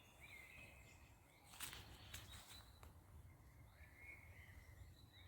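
Faint bird calls, short chirps near the start and again about four seconds in, over a low rumble of wind noise, with a few sharp clicks between about a second and a half and three seconds in.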